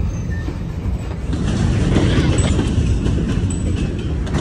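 Freight train covered hopper cars rolling past: a steady rumble of steel wheels on the rails with scattered clicks and clanks, growing a little louder about a second and a half in.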